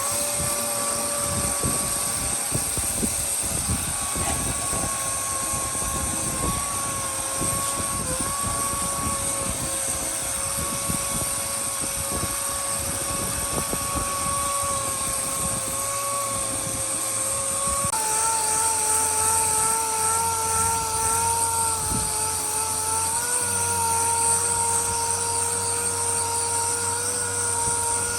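Electric power tool running steadily with a whine over a high hiss; its pitch steps down slightly about eighteen seconds in.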